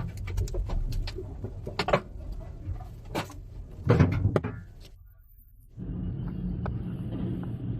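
Low rumbling wind noise with a run of sharp knocks and clattering bangs, the loudest about four seconds in. It drops away briefly near five seconds, then a steadier rush of wind and rumble sets in.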